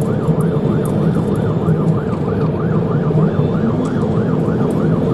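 Police car siren in a fast yelp, its pitch sweeping up and down about three to four times a second, over steady engine and road noise.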